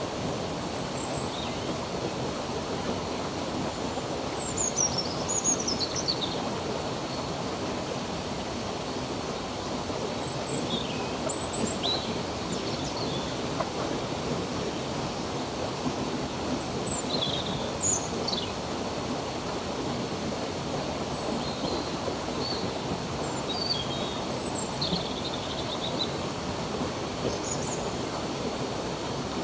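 A stream of running water rushing steadily, with birds chirping now and then over it: short high chirps and quick falling calls.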